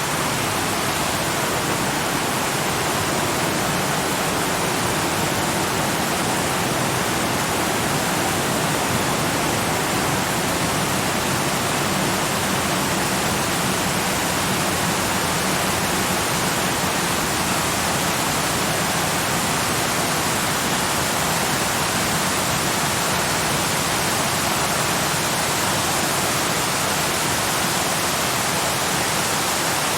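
Waterfall: a steady, even rushing of falling water with no change throughout.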